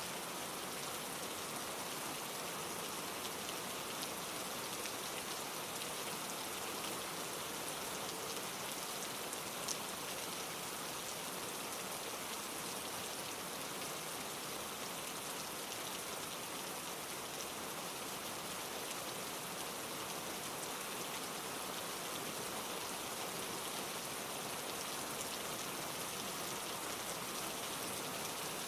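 Steady rain falling, an even hiss with scattered faint drop ticks, one a little louder about ten seconds in.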